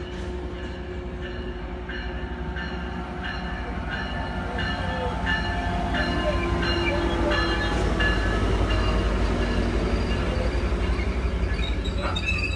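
Amtrak Pacific Surfliner passenger train pulling in, its diesel locomotive's deep rumble growing steadily louder. A bell-like ringing repeats about twice a second through the first half.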